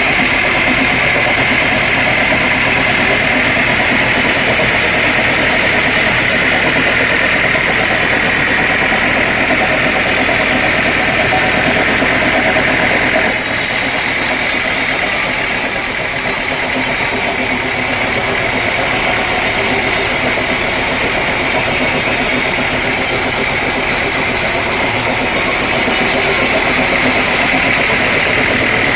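Sawmill machinery running steadily: an engine drone under a high whine, with an abrupt shift in the sound about halfway through.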